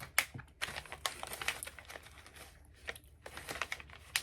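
Close-miked crunchy chewing of crisp banana snack bites, heard as bursts of crackling crunches.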